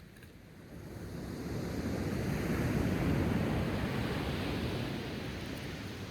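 A wave breaking and washing up the shore. The surf noise swells for about two seconds, peaks midway, and then slowly fades away.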